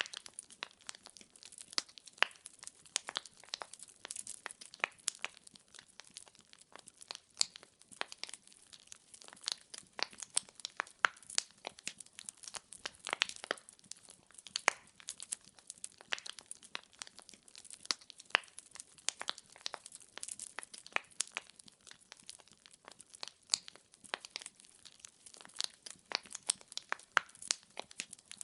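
Wood fire crackling: burning firewood gives off many irregular, sharp snaps and pops over a faint, steady hiss.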